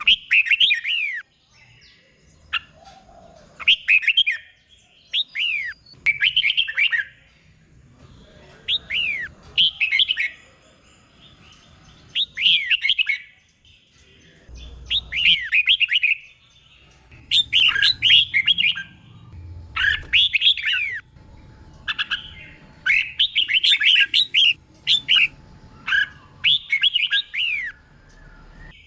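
Red-whiskered bulbul singing: short bursts of quick, sweeping whistled notes, repeated every second or two with brief pauses between phrases.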